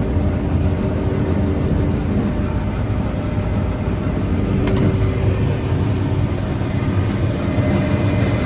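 Combine harvester running steadily at work, heard from inside its cab: a loud, even engine and machinery rumble with a steady low hum.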